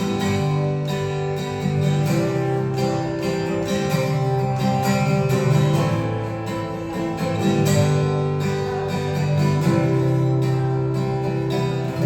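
Acoustic guitar strummed in a steady rhythm, with the chords changing every couple of seconds, in a live performance of a song.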